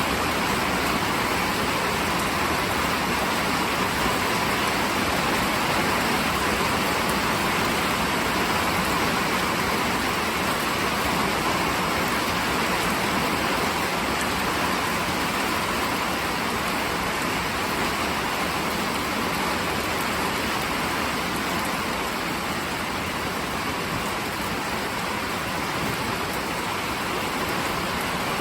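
Steady rain falling, an even hiss without breaks or claps of thunder.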